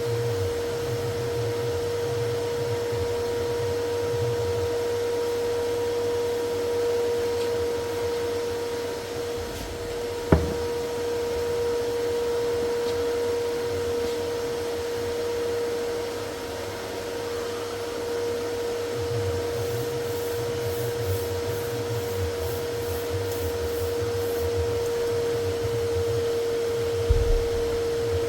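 Steady hum and whine of an electric blower motor running at constant speed, with one sharp knock about ten seconds in and a couple of lighter knocks near the end.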